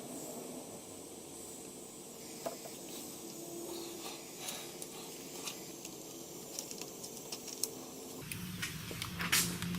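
Steady hiss of a gas soldering iron's hot-air exhaust port played over adhesive-lined heat-shrink tubing to shrink it onto a soldered wire splice. A low hum and a few clicks come in near the end.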